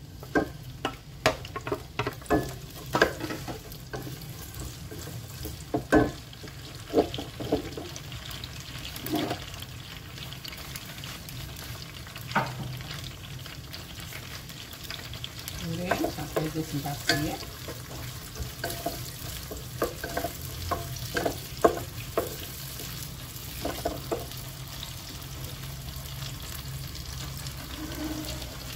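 Onions, garlic, lemongrass and bird's eye chillies frying in oil in a pot with a steady sizzle, stirred by a wooden spatula that knocks and scrapes against the pot in clusters of sharp taps, mostly in the first several seconds and again around the middle.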